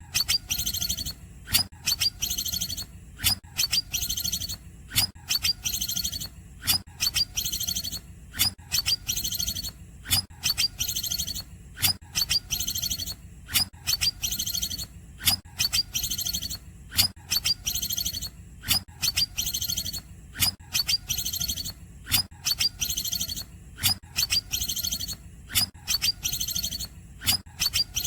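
Cucak ijo (green leafbird) singing its cungkokan song: a short, high-pitched phrase of sharp clicks and trills, repeated evenly about once a second over a low steady hum.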